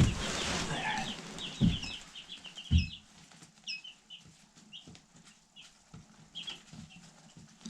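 A brood of young meat chicks peeping: many short, high chirps overlapping, dense for about three seconds and then thinning to scattered peeps. Two dull thumps sound in the first three seconds.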